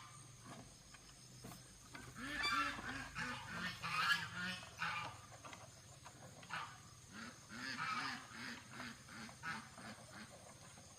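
Geese honking: two runs of quick repeated calls, the first about two seconds in and the second around seven seconds in.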